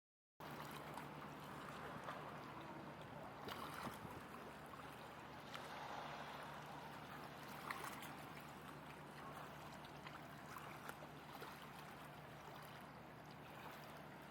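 Faint, steady waterside ambience of gently moving water, with a low steady hum underneath and a few small clicks. It starts after a brief moment of silence.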